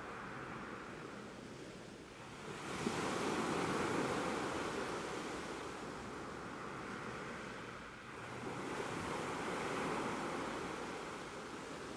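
Ocean surf: two waves break and wash up, one about two and a half seconds in and another about six seconds later, each swelling quickly and then slowly drawing back.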